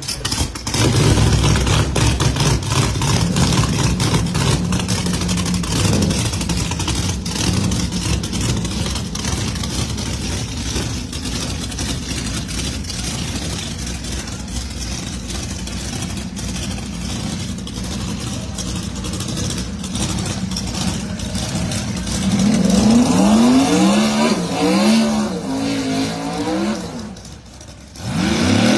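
Two drag-racing cars launching and running down the strip at full throttle, a loud, dense engine noise that slowly eases. Later, an engine revs up and down in a string of blips, and the sound dips briefly just before the end.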